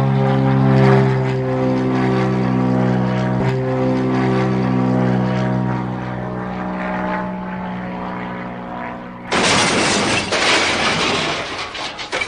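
Steady vehicle engine drone with a slightly shifting pitch. About nine seconds in, it cuts to a sudden loud rushing noise.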